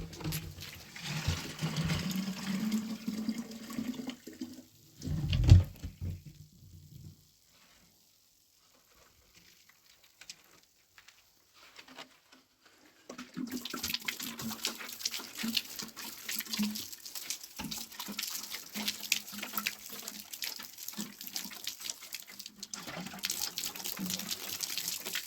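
Running water pouring and splashing in two stretches, stopping for several seconds in between. There is a loud knock about five and a half seconds in.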